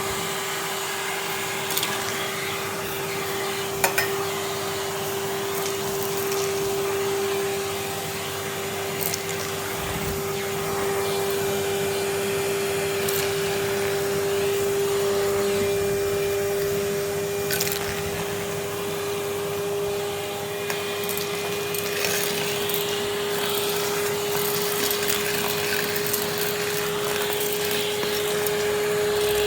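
Henry canister vacuum cleaner running steadily with a constant motor whine, with a few short clicks and knocks along the way.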